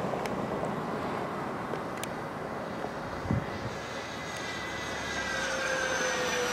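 Electric ducted-fan whine from a radio-controlled Freewing AL37 (Boeing 737 model) jet in flight. It grows louder over the second half and falls in pitch as the model passes, at about half throttle.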